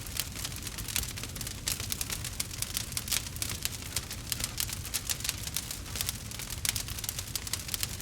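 Campfire crackling: many quick, irregular pops and snaps over a low steady rumble.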